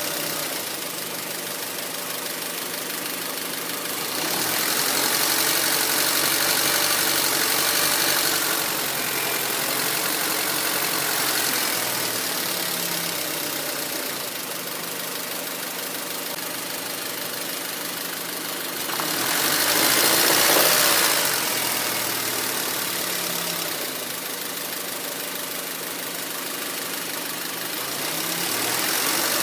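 A 2004 Honda Civic LX's 1.7-litre four-cylinder engine idling roughly, its revs sagging and picking up again several times. A rushing hiss swells twice, loudest about two-thirds of the way through. The owner suspects a failing O2 sensor behind the rough, low idle.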